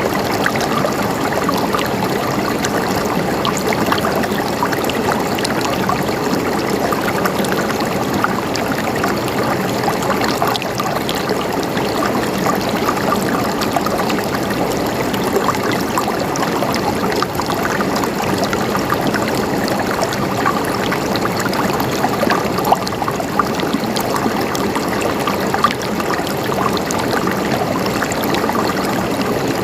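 Running water flowing and gurgling steadily, with small splashes and trickles throughout.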